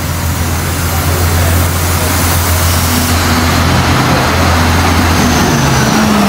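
Irish Rail diesel multiple unit arriving along a station platform, its low engine drone and wheel noise growing steadily louder as the railcars draw alongside.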